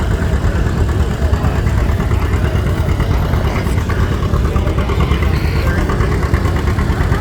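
John Deere AR's two-cylinder engine working hard under load as the tractor pulls a sled, a loud, steady low pulsing.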